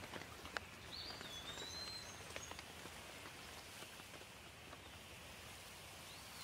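Light rain falling on leaves: a faint steady hiss with many separate drops ticking sharply. A bird gives a short whistled call about a second in and another near the end.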